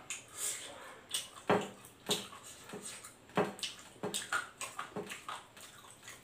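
Close-miked mukbang eating sounds: wet chewing and lip smacks while eating fried chicken, an irregular run of short smacks and clicks, with fingers picking at the chicken on the tray.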